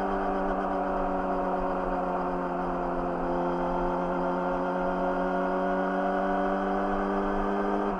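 Yamaha YZF-R6 inline-four engine through an Akrapovic slip-on exhaust, running at steady cruising revs with the pitch easing slightly lower over the first few seconds and then holding.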